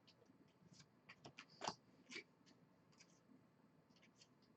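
Faint, scattered clicks and rustles of baseball trading cards and pack wrappers being handled, the most distinct about a second and a half in.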